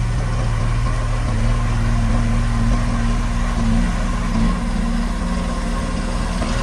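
Heavy diesel engine of construction machinery running steadily, a low hum whose pitch steps up slightly about a second in.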